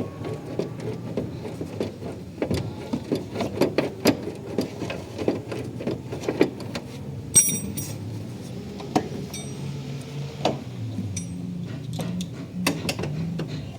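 Irregular light knocks, taps and clinks of objects being handled, with a sharper clink about halfway through, over a low steady hum.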